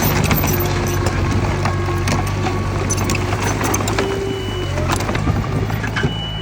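Diesel engine of heavy earthmoving machinery running steadily, with frequent metallic clanks and rattles. A high reversing beep sounds about four seconds in and again near the end.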